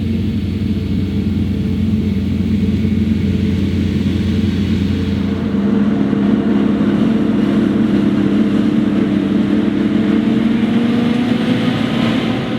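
Heavy diesel engine of farm harvest machinery running steadily under load. A deep part of the sound drops away about five seconds in, and the engine note creeps slightly higher toward the end.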